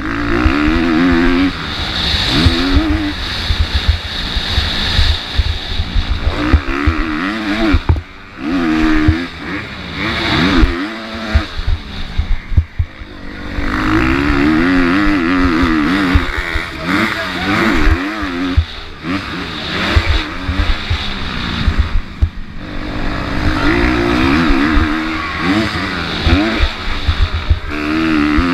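MX2 motocross bike engine racing at full throttle, its pitch climbing and falling again and again as the throttle is worked and gears change. The engine drops off briefly about eight seconds in and again around twelve seconds, then picks back up. Low buffeting thumps run underneath.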